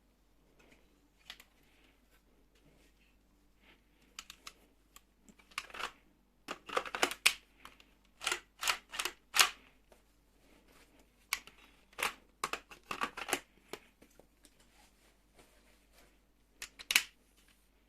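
Plastic clicks and snaps from a Lego-brick AR-15 model being worked by hand. They come in quick clusters and stop near the end after one loud snap.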